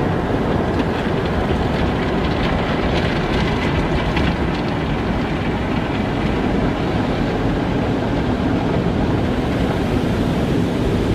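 Car wash running: a steady rumbling wash of spraying water and machinery, heaviest in the low end, with faint light ticking between about two and five seconds in.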